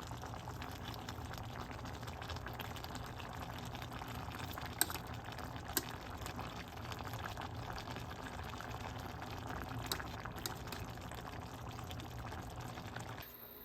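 A pot of liquid simmering and bubbling steadily, with a few light clicks of utensils. It cuts off suddenly near the end.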